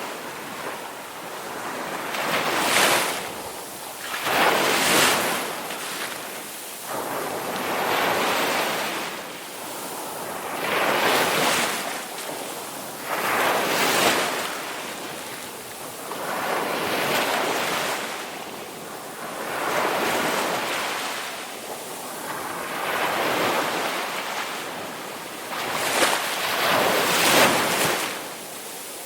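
Ocean waves breaking and washing on a shore, one surge after another every two to three seconds, each swelling and then fading.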